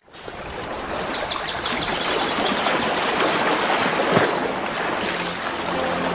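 Stream of running water flowing steadily, fading in over the first second.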